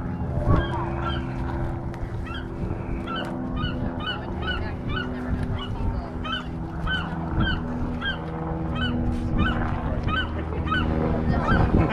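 Seagull calling in distress while being handled, a run of short, harsh notes repeating about twice a second.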